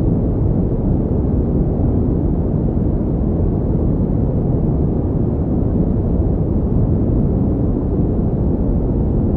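Continuous electronically generated noise, billed as pink noise, steady and even throughout, weighted toward low pitches so it sounds like a deep rumble with little hiss.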